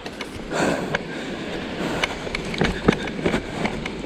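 Steady rush of a waterfall, with irregular clicks and knocks over it.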